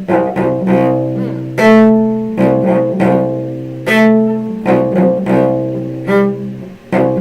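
Cello playing a slow passage of short bowed notes, each starting cleanly, with two louder, longer held notes about one and a half and four seconds in.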